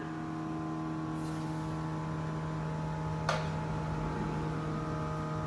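V8 engine of a turbocharged 1962 Chevy, on a new HEI electronic ignition, idling steadily with an even, unchanging note. A single sharp click a little past halfway.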